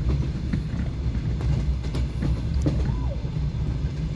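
Passenger train carriage running on the rails: a steady low rumble with wheels knocking over rail joints, heard from inside the car. A brief high tone sounds and falls away about three seconds in.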